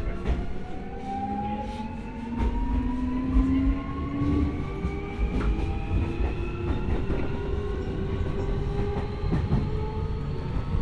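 Keio 1000 series electric train heard from inside the car: the inverter and traction motors whine in several tones that rise in pitch as the train accelerates, over a low running rumble, with wheels clicking over rail joints now and then.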